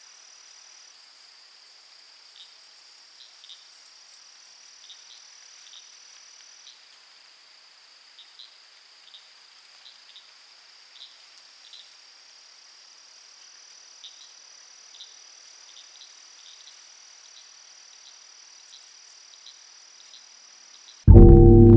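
A steady, high-pitched insect trill that shifts slightly in pitch once or twice, with faint short chirps scattered over it. Near the end a loud, low, gong-like chord comes in suddenly.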